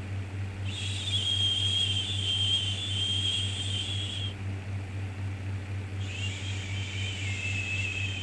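A drawn-out 'shhh' shushing sound, lasting about three and a half seconds, repeated with a pause of under two seconds; the second one starts about six seconds in. Under it runs a steady low hum.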